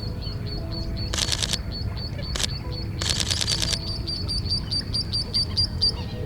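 A bird calls in a fast, steady series of short high chirps, about four or five a second. Twice the calling is overlaid by a burst of rapid mirrorless-camera shutter clicks shooting continuously, with a single shutter click between the bursts.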